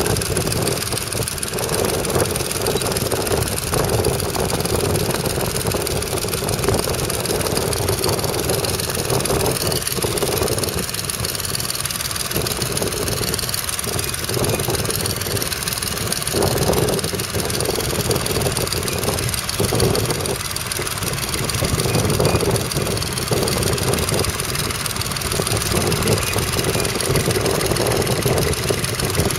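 Nuffield Universal 3 tractor's three-cylinder diesel engine running under load as it pulls a plough, its level swelling and easing every few seconds.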